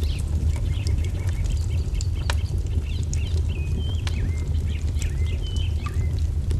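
Wood fire crackling, with scattered sharp pops over a steady low rumble, while small birds chirp and give short whistled notes, most of them in the middle stretch.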